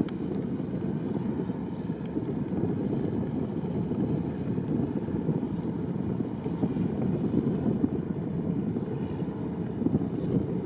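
Boat under way: a steady low rumble of the boat and its engine mixed with wind buffeting the microphone.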